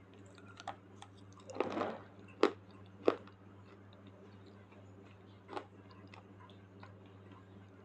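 Slate pencil being bitten and chewed close to the microphone: a short crunching burst, then two sharp, loud snaps about half a second apart and a softer one a few seconds later, with small clicks between. A steady low hum runs underneath.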